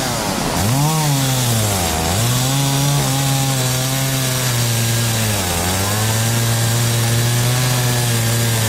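Two-stroke chainsaw running at full throttle and cutting wood; its pitch sags a few times as the chain bites and then recovers.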